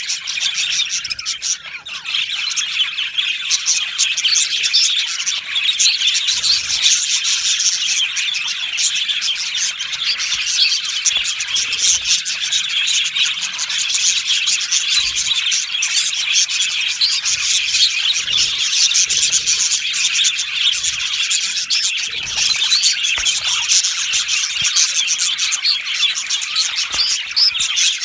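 Budgerigars chattering and chirping without a break, many birds warbling over one another in a dense, high-pitched chorus.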